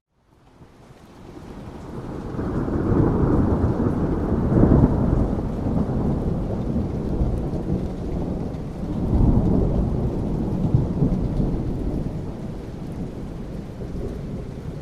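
Rolling thunder over steady rain: a deep rumble fades in out of a moment of silence, swells twice, and slowly dies away.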